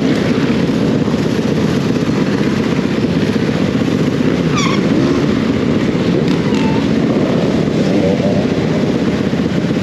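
Dirt bike engine running steadily with a fast, even firing pulse, a few short high chirps about halfway through.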